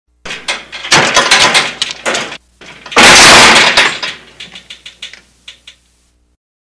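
Crockery clattering for about two seconds, then a loud crash about three seconds in, followed by scattered clinks of pieces dying away: dishes breaking.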